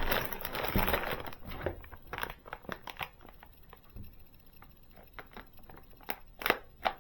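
Plastic packaging of a model-kit part being torn open and crinkled. It rustles steadily for about the first two seconds, then gives scattered small crackles, with a few sharper clicks near the end.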